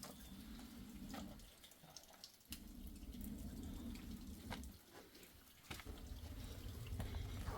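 Water running in three stretches of about two seconds each, with scattered small clicks and drips.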